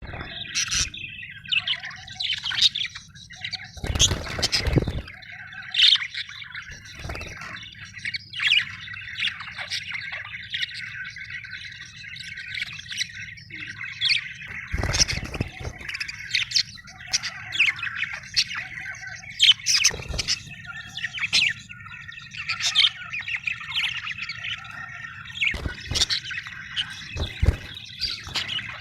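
Budgerigars chirping continuously, many quick overlapping calls, over a steady low hum. A few dull knocks sound now and then.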